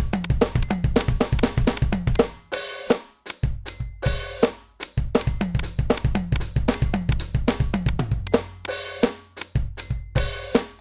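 NUX DM-8 electronic drum kit being played in a fast pattern: rapid bass drum and snare hits under hi-hat and cymbal, with a couple of brief breaks.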